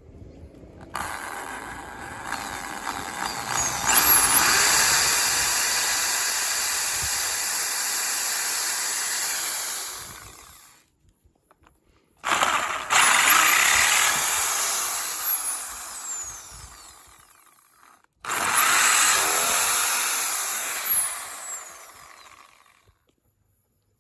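A handheld power tool run in three bursts of several seconds each, each with a rising whine as it speeds up and trailing off at the end.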